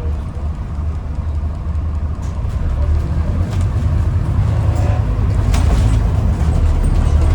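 Inside a Scania N250UD double-decker bus (Alexander Dennis Enviro400 MMC body): a steady low diesel engine rumble with road noise, getting louder about three seconds in, with light clicks and rattles from the cabin.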